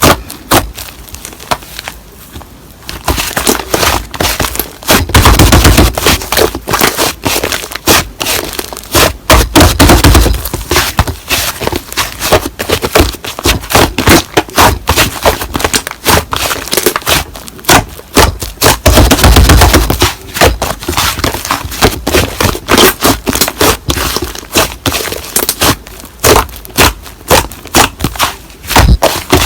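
Slime being pressed and worked by hand, a dense run of sharp clicks, pops and crackles, with three heavier squelching presses along the way.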